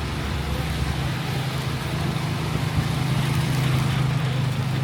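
Wet city street traffic with a steady hiss, and a nearby vehicle engine running as a low steady hum that grows stronger about two seconds in.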